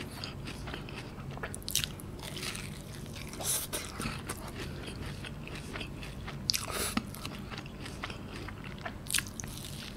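Close-miked chewing of kunafa, a shredded-pastry dessert with a mozzarella cheese filling: wet mouth sounds with faint crackles, and a few louder crunchy bites about three and a half, seven and nine seconds in.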